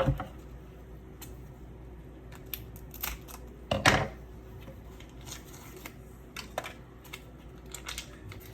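Kitchen handling noises: a few sharp clicks and knocks scattered through, the loudest cluster about four seconds in.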